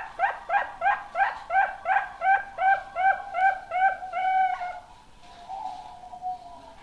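Young zebra dove (perkutut) cooing: a quick run of about a dozen short, downward-curving notes, about three a second, that ends in a longer note. A softer, drawn-out coo follows.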